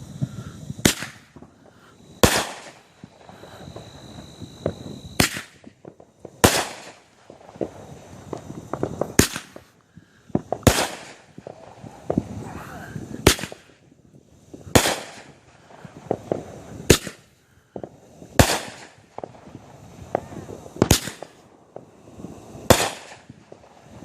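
Fireworks grand finale: aerial shells bursting in sharp, echoing bangs about every second and a half, with rapid crackling pops between them.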